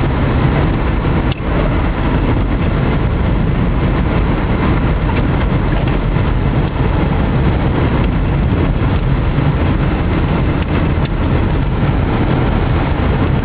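Steady engine and road noise from inside a car driving along a snow-covered freeway, with the tyres running through unplowed snow.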